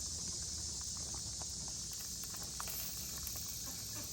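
Faint outdoor ambience: a steady high-pitched hiss of insects, with a few faint scattered ticks and a low rumble.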